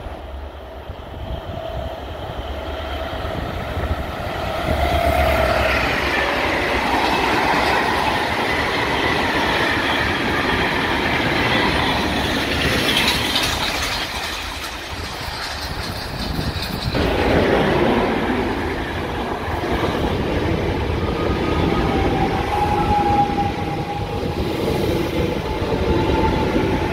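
A Class 6000 freight train and its wagons running past on the rails, growing louder about 4 seconds in. About 17 seconds in the sound changes abruptly to a Class 4000 Alfa Pendular tilting electric train passing close, with a thin steady tone in its last few seconds.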